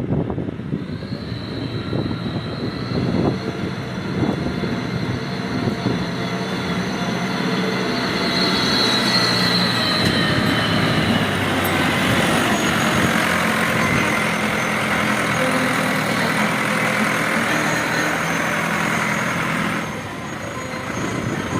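Tümosan farm tractor's diesel engine running steadily, getting louder partway through and dropping back near the end.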